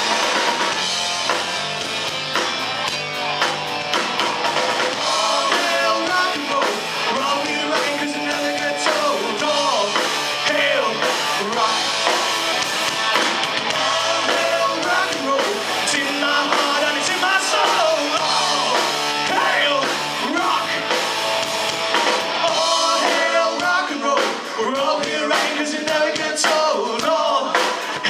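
Live rock band playing: electric guitars, bass and drum kit with singing.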